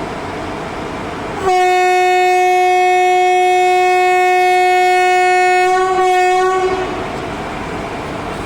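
Indian Railways locomotive horn sounding one long steady note for about five seconds, with a brief break near the end before it fades out, over a steady train rumble.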